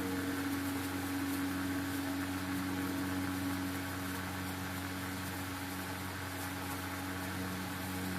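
Electric radiator cooling fan motor from a Chevrolet Corsa pickup running steadily, a constant hum over an airy rush.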